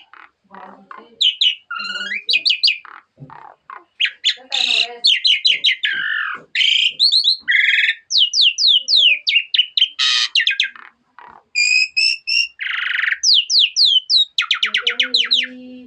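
Asian pied starling (jalak suren) singing a long, varied song: runs of quick falling whistles, harsh chattering and buzzy notes and fast trills, packed with mimicked phrases (isian) learned from other birds.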